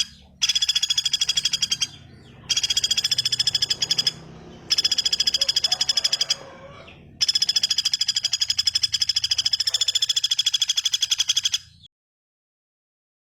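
Long, fast, evenly pulsed bird trills of a songbird training recording, repeated in several runs of one to four and a half seconds with short gaps between them. It stops abruptly about twelve seconds in.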